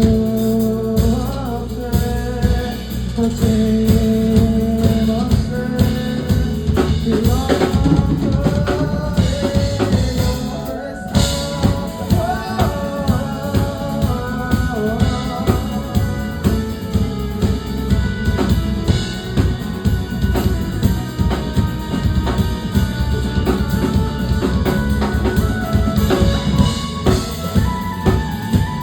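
Band music with no words: a drum kit plays a busy, even beat under a bass and a sliding melodic lead line.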